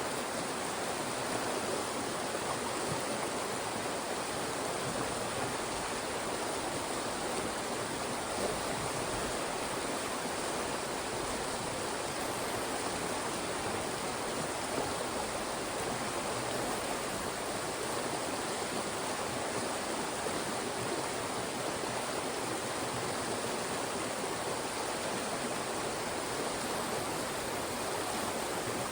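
Fast-moving mountain stream rushing through rock funnels: a steady, even rush of water with no breaks.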